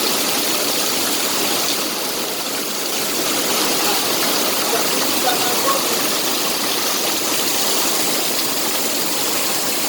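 Heavy rain pouring down, a steady dense hiss of downpour.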